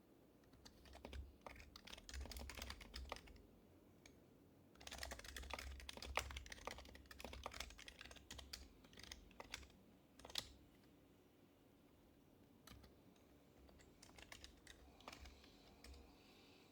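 Soft typing on an HHKB Professional HYBRID Type-S keyboard with its silenced Topre capacitive switches. A short burst of keystrokes comes first, then a longer run of quick typing, then a few scattered keystrokes near the end.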